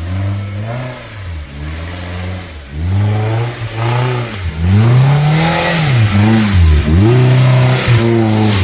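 An off-road vehicle's motor revving up and dropping back over and over, roughly once a second.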